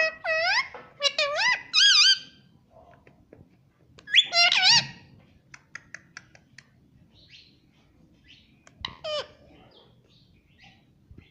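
Pet parrot vocalizing in high, wavering calls: a run of several calls in the first two seconds, another burst about four seconds in, and a short call near nine seconds, with soft clicks in between.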